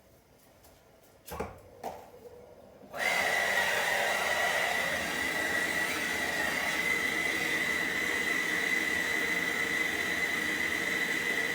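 Brazing torch flame burning steadily with a rushing hiss and a thin high whistle, starting suddenly about three seconds in after two sharp clicks, as the copper charging tube on a refrigerator's sealed system is brazed.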